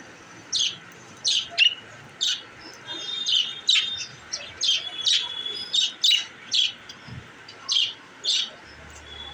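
Budgerigars chirping: a run of about a dozen short, sharp chirps at uneven intervals, with thin held whistly notes between some of them.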